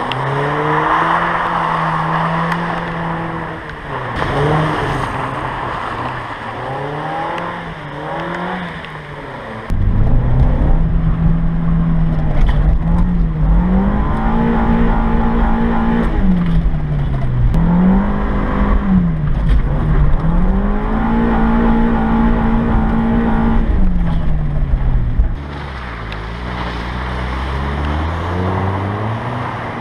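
Mazda Miata's 1.8-litre four-cylinder engine revved up and down over and over as the car is thrown sideways through slides and donuts on a wet surface. A heavy low rumble comes in suddenly about a third of the way through and cuts off sharply near the end.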